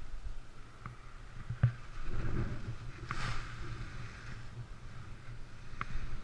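Wind buffeting an action camera's microphone in high wind, a low uneven rumble, with a few sharp clicks and a brief rustling rush about three seconds in.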